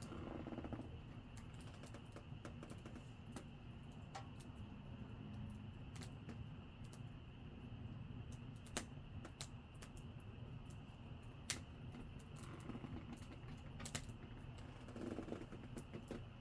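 Wood campfire crackling: irregular sharp pops and snaps, three or four of them noticeably louder, over a low steady hiss.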